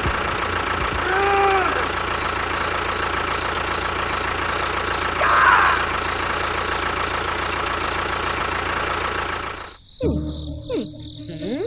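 A small engine or motor running steadily, which stops abruptly about ten seconds in.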